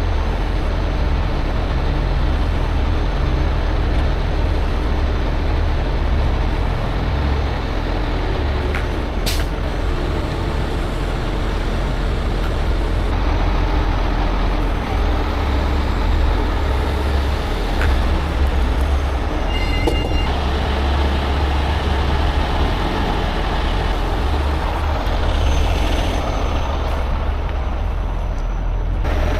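Heavy truck diesel engine running steadily with a deep low rumble. There is a single sharp click about nine seconds in.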